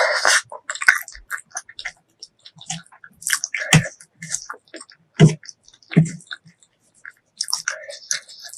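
Close-miked chewing of spicy pork leg curry and rice, with irregular wet, sticky mouth sounds and three louder smacks in the middle.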